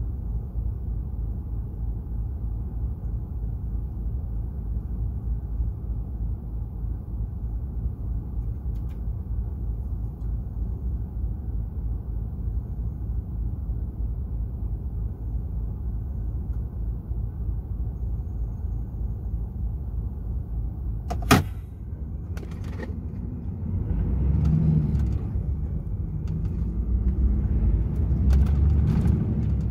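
DAF XF 480 truck running on the road: a steady low engine and road rumble. About two-thirds of the way through there is one sharp click, followed by a few lighter ones, and after that the rumble grows louder and rougher.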